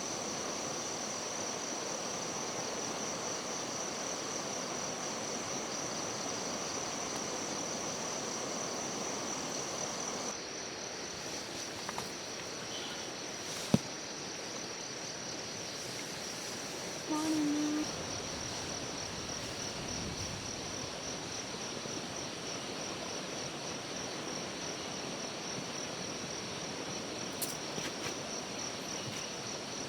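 Insects trilling in a steady, continuous high-pitched chorus over a soft outdoor hiss. A single sharp click comes about halfway through, and a brief low sound follows a few seconds later.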